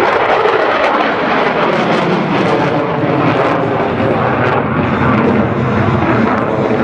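Aircraft engine noise, loud and steady, as an aircraft flies by.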